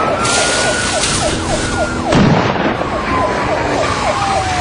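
Police car siren wailing in a slow rise and fall, over road and engine noise, with a dull thump about halfway through.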